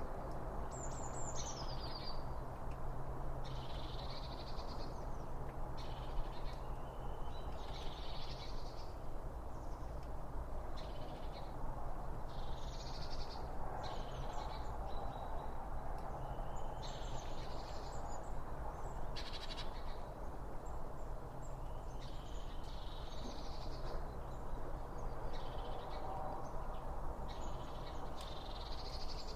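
Birds calling: short high calls every couple of seconds, the first sweeping downward, over a steady low rushing background.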